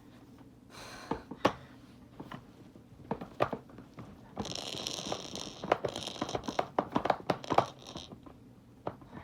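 Clicks, knocks and scraping from handling the plastic parts of a children's toy learning table, as it is put back together. There is a busy stretch of scraping and rustling with rapid clicks from about halfway through to near the end.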